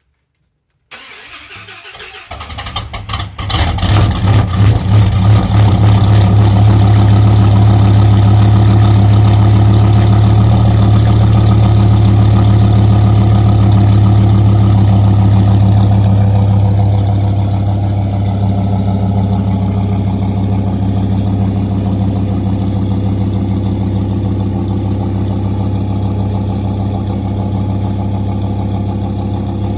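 2001 Dodge Ram's 8.0-litre V10 cold-starting through a straight-pipe exhaust with only an Aero Turbine straight-through muffler: it cranks about a second in, catches with uneven pulses, and settles into a loud, fast idle. About halfway through, the idle drops to a quieter, lower level as the engine begins to warm up.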